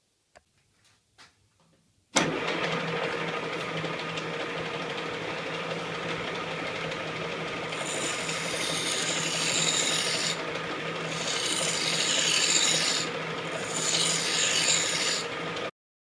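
KART E1N metal lathe running steadily, starting suddenly after a few faint clicks. From about halfway in, a cutting tool scrapes against the turning metal workpiece in three spells, and the sound cuts off just before the end.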